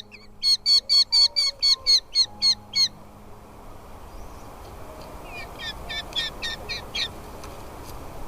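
Nestling birds giving loud, evenly repeated begging calls, about four a second, that stop about three seconds in. A fainter run of the same calls comes back in the second half over a low background hiss.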